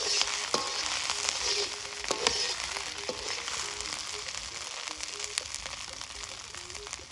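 Chili, garlic and ginger paste sizzling in hot oil in a metal wok over a wood fire, with a few sharp clicks and crackles. The sizzle grows a little quieter after the first couple of seconds.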